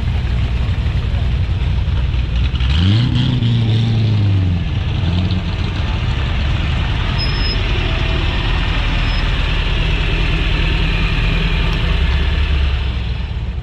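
Car engine running steadily, with one engine revving up about three seconds in, holding for a couple of seconds, then dropping back.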